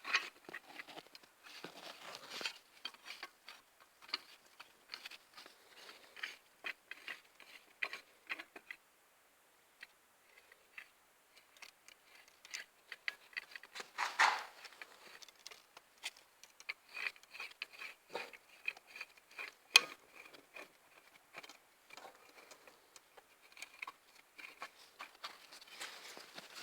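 Light metallic clicks, taps and scrapes from hand-handled tools and valve-train parts as a homemade valve-spring compressor is set up on a cylinder head, with a brief pause about a third of the way in, a louder rustling clatter near the middle and one sharp click shortly after.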